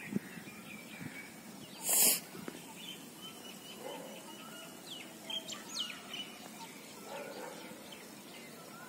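Birds chirping and calling in short, thin notes, with one brief loud burst of noise about two seconds in.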